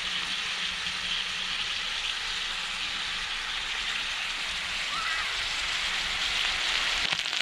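Potatoes frying in pork fat in a skillet over a log fire: a steady sizzle that grows a little louder near the end.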